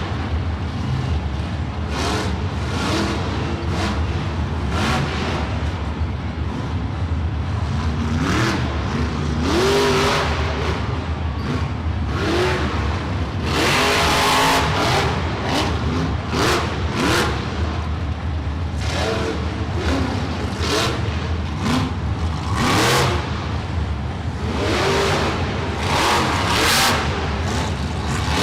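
Monster truck engine revving hard in repeated bursts, its pitch rising and falling with each stab of the throttle.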